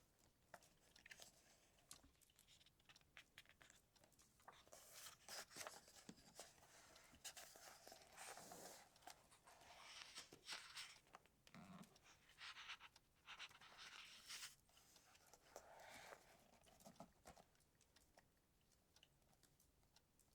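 Paper pages of a book rustling and crinkling as they are handled and turned, in soft, irregular bursts.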